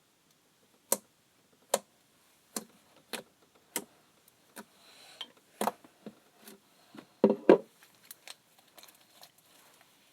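Slime being pressed and poked, making sharp, irregular clicking pops, about a dozen in all, with the loudest two close together a little past the middle.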